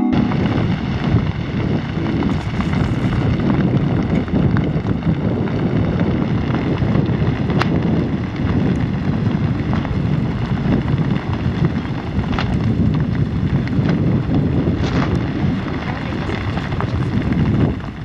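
Ebeko volcano's ash eruption: a loud, continuous rumbling rush, heaviest in the low end, with wind buffeting the microphone.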